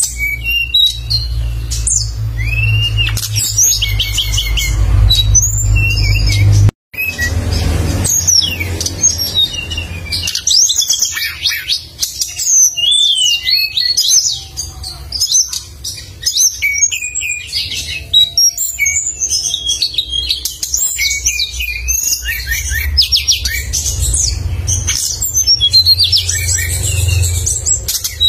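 A songbird singing energetically in rapid, sharp, high chirps and trills, with a steady low rumble underneath. The sound drops out completely for a moment about a quarter of the way through.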